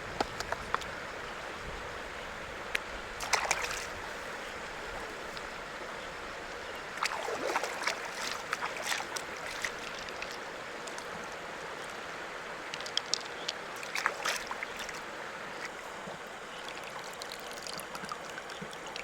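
River water running steadily, with scattered sharp clicks and short bouts of scraping and knocking, in clusters about three and a half seconds in, around the middle and again near fourteen seconds.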